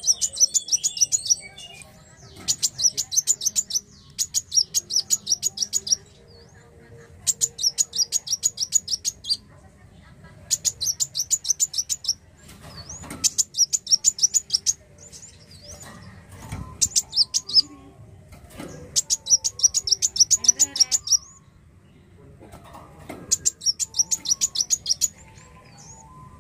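Kolibri wulung sunbird singing its rapid, high-pitched chattering song, with about nine phrases of quick repeated notes, each lasting one to two seconds and separated by short pauses.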